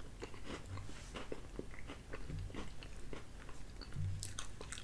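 A person chewing a mouthful of chicken pot pie with flaky crust, with small wet mouth clicks throughout. About four seconds in, a metal fork clinks and scrapes in the aluminium foil pie tin.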